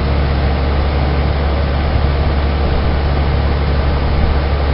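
Residential heat pump outdoor unit running in heat mode, close up: a steady low compressor hum under the even rush of its condenser fan.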